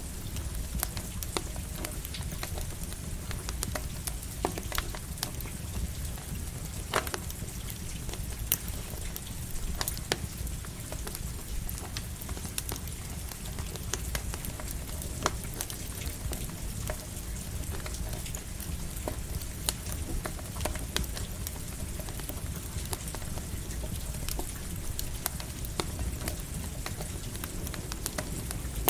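Campfire crackling, with irregular sharp pops, over the steady hiss of light rain and a low steady rumble.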